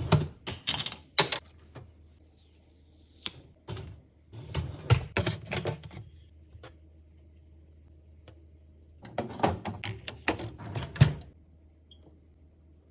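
Clattering and rattling knocks of hard objects being handled, in four bursts, over a faint steady low hum.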